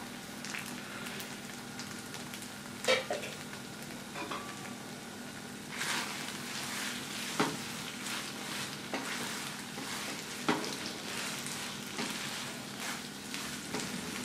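Vermicelli kesari sizzling in a nonstick pan as ghee is poured in, with a single knock about three seconds in. From about six seconds in, a spatula stirs and scrapes through the sticky vermicelli in repeated short strokes while the frying continues.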